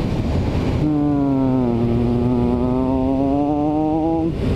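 Motorcycle engine running at speed over wind rush. About a second in, its note comes up clearly, sags a little in pitch, then climbs slowly before fading near the end.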